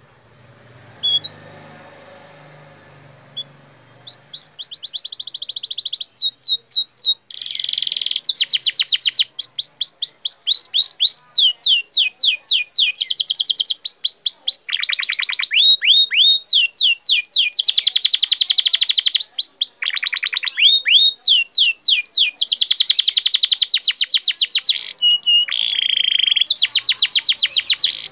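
A songbird singing a long, loud song of very rapid trills: runs of short, high, down-slurred notes that switch to a different note every second or two, after a few faint chirps at the start.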